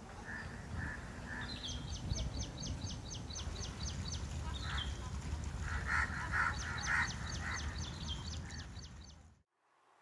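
Outdoor birdsong: a small bird's rapid series of short, high, descending chirps, repeated in two long runs, with a few clusters of lower, louder bird calls around the middle, over a steady low rumble. The sound cuts off suddenly near the end.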